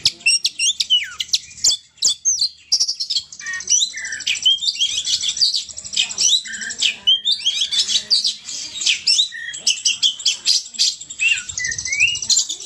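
Oriental magpie-robin (kacer) singing hard and without let-up: a rapid, varied stream of sharp whistles, quick up-and-down glides and chirps, scarcely pausing.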